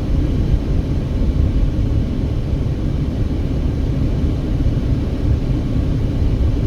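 Steady low rumble of road and engine noise inside a moving car's cabin, cruising at about 45 mph.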